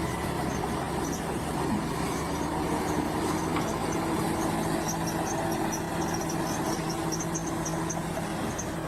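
Bulldozer's diesel engine running steadily under work, with a steady whine joining about two seconds in and short, faint high chirps or squeaks in the middle.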